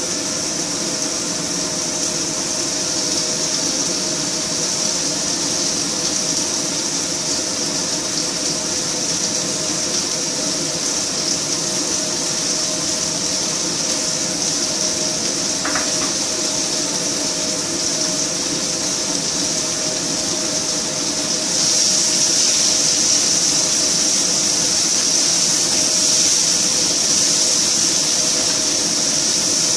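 Chopped onions sizzling in hot oil in a frying pan, a steady hiss that gets louder about two-thirds of the way through, over a steady low hum.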